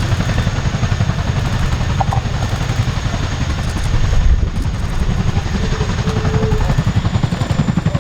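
RAF Chinook tandem-rotor helicopter manoeuvring low, its rotor blades beating in a rapid, steady thudding rhythm over the whine of its turbines.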